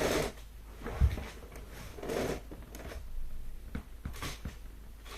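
Irregular light knocks and clicks with a short rustle, the sound of small objects being handled at close range; one sharper thump comes about a second in.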